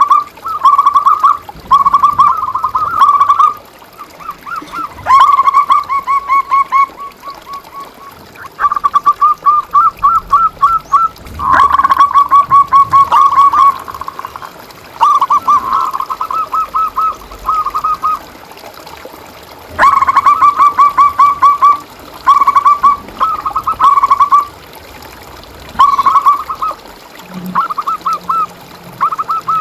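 Zebra doves (perkutut) cooing: phrases of rapid, trilled notes repeated again and again, with short pauses between them.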